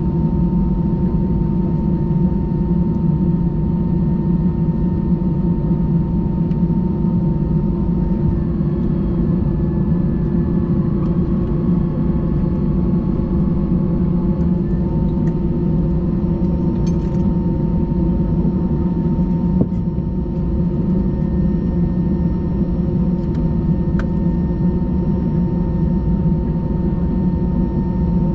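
Airbus A320 engine and airflow noise heard inside the passenger cabin: a steady low rumble with a constant hum, its pitch shifting slightly about a third of the way in.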